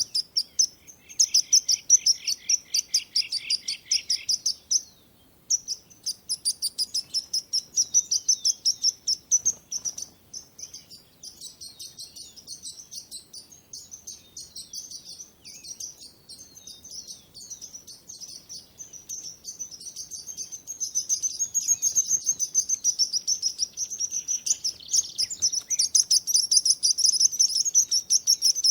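Several small songbirds chirping in fast, high-pitched runs of repeated notes. A second, lower-pitched bird joins for the first few seconds. The chirping briefly stops about five seconds in, goes quieter through the middle, and grows louder again near the end.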